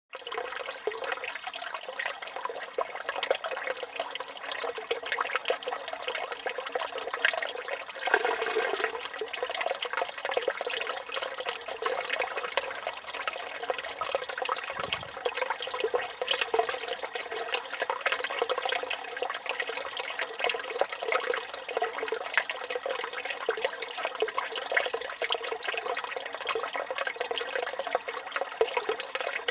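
Water pouring steadily from the spout of a stone village fountain and splashing into its basin, a constant bubbling splash.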